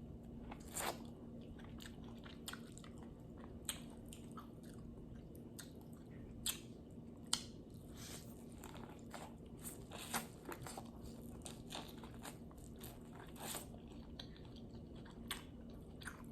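Close-miked eating: biting into and chewing corn on the cob, with scattered small crunches and wet clicks at irregular intervals over a faint steady hum.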